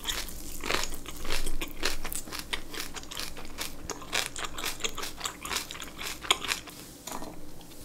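Close-miked chewing of a big mouthful of boiled pork belly (suyuk) with kimchi: a steady run of irregular wet clicks and crunches.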